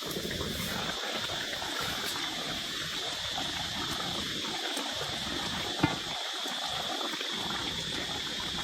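Steady flow of river water, with a steady high drone of insects above it and a single sharp click about six seconds in.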